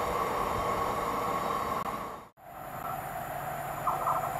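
Railway train noise: a steady sound that cuts off suddenly a little over two seconds in. It is followed by a quieter train sound with a steady tone, and pulsing higher notes come in near the end as a train approaches in the distance.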